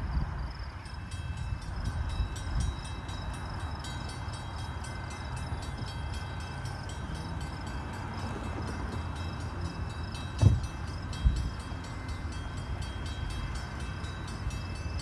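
Approaching Metra commuter train, a steady low rumble, with two short thumps about ten and eleven seconds in.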